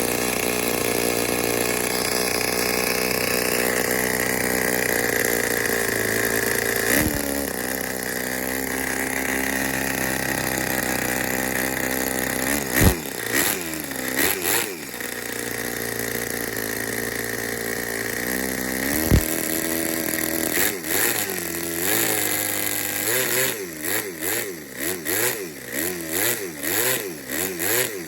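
Toyan FS-L200 two-cylinder four-stroke miniature engine running on a bench. It idles steadily at first, is revved up and down a couple of times about halfway through, then is blipped up and down rapidly over the last several seconds. A few sharp knocks are heard along the way.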